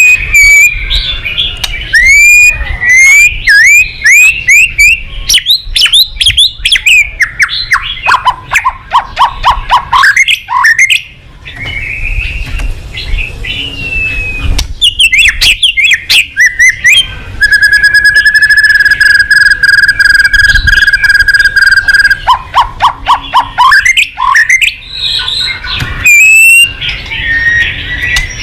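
White-rumped shama (murai batu) singing loudly in a varied run: quick upward-sweeping whistles and rapid trills of short notes, broken near the middle by one long steady whistle held about four seconds.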